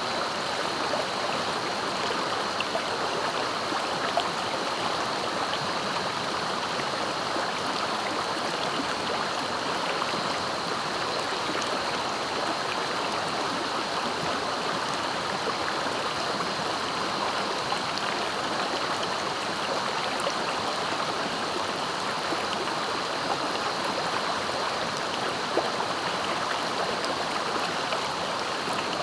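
Clear, fast-flowing river rushing steadily over its bed, an even, unbroken water noise.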